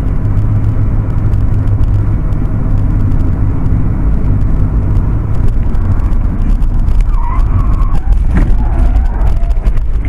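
Loud, steady low rumble of a motor vehicle running, with a brief wavering higher tone about seven seconds in.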